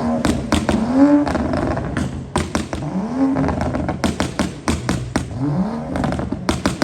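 Car engine revved up and released several times, with a rapid series of loud exhaust pops and crackles, heaviest near the end.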